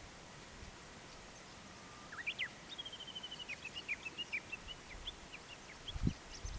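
Small songbird singing after rain, starting about two seconds in: a few quick rising notes, a fast run of high notes, then scattered chirps. The song sits over a steady faint outdoor hush, with a low thump near the end.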